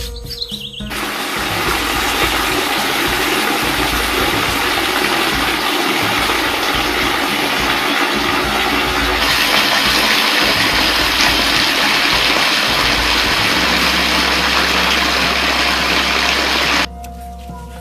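Rushing, gushing water, a loud steady wash that starts about a second in, grows brighter about halfway and cuts off suddenly near the end.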